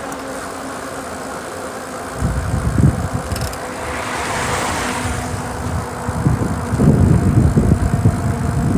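A car passing on a wet road: its tyre hiss swells and fades about four to five seconds in. Wind buffets the microphone in heavy gusts around it.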